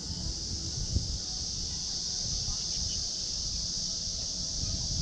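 Steady high-pitched drone of summer cicadas, with low irregular rumbling underneath.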